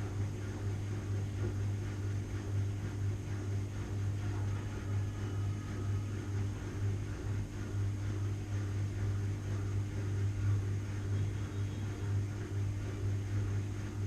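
Washing machine running with a steady low hum and an even mechanical whir.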